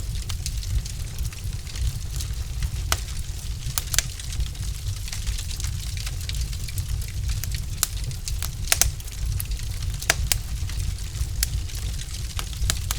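Logs burning in a fireplace, crackling: irregular sharp pops and snaps, a few louder than the rest, over a steady low rumble of the fire.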